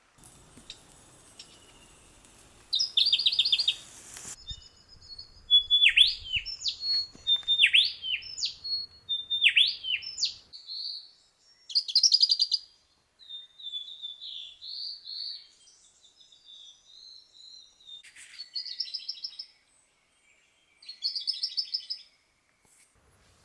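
Small forest birds calling: short buzzy rattling trills, and a run of sharp whistled notes that each drop steeply in pitch, with softer chirps in between. The sound stops and changes abruptly several times.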